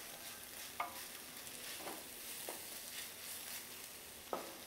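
Chopped onions, curry leaves and dried red chillies sizzling in hot coconut oil in a steel pan as a wooden spatula stirs them, with a few short scrapes of the spatula against the pan.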